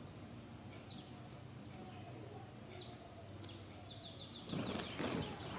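A bird calling faintly: short high chirps about every two seconds, then a quick trill of rapid chirps near the end. About four and a half seconds in, a louder rustling noise starts.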